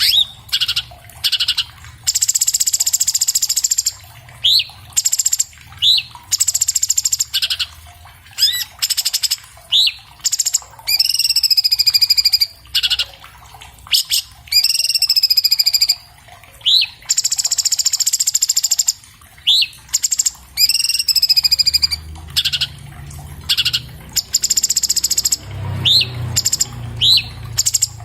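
Orange-bellied leafbird (cucak cungkok) singing a varied, rapid song: buzzy rattling trills alternating with sharp rising notes and slurred whistles that bend downward, repeated in quick phrases with short pauses.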